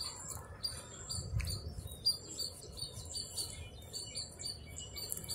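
Small birds chirping in short, high, rapidly repeated notes.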